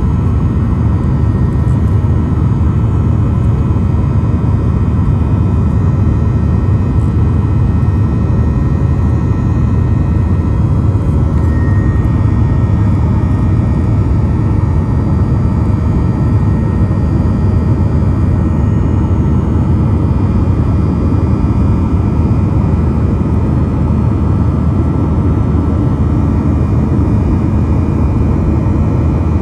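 Boeing 737-800's CFM56 jet engines running steadily: a loud, even rumble with several steady whining tones above it.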